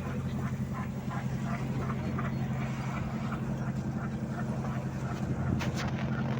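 Fishing boat's engine running steadily, with a light rhythmic knock a few times a second.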